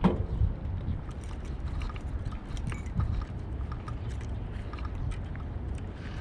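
Steady low rumble of wind on the microphone, with faint scattered ticks and a short knock right at the start.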